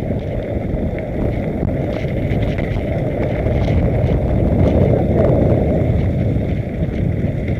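Steady rush of wind on the microphone mixed with the rumble of bicycle tyres rolling fast over a rough dirt trail on a mountain-bike descent, with a few small rattles and clicks.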